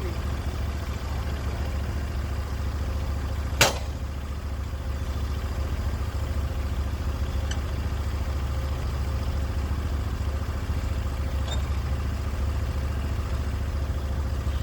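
Portable sawmill's engine running steadily, with one sharp knock about three and a half seconds in and a few faint ticks later.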